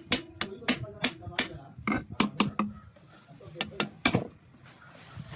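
Sharp metallic taps and clinks of a tool striking a metal part of a pumpset engine's cylinder head, about three to four a second, in short runs with a brief lull in the middle.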